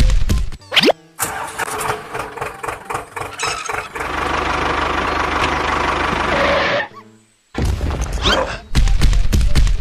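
An engine starting and running steadily for about three seconds, then cutting off suddenly, mixed with music and other short sound effects.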